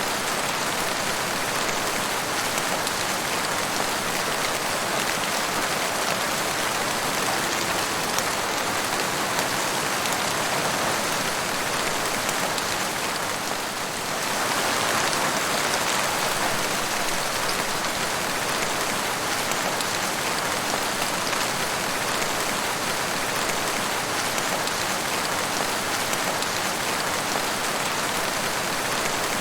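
Steady forest rain falling, an even patter of raindrops with a brief lull about halfway through.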